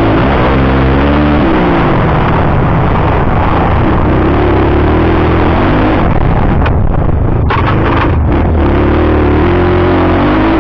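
Motocross motorcycle engine running loud, its pitch rising and falling as the throttle is opened and closed. A few short knocks about two-thirds of the way in.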